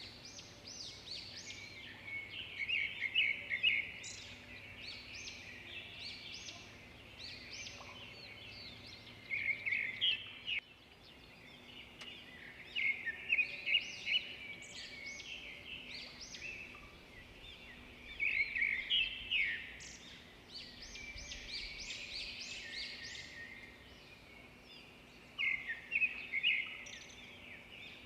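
Songbirds chirping and singing in repeated bursts of quick trilled notes every few seconds, over a faint steady background.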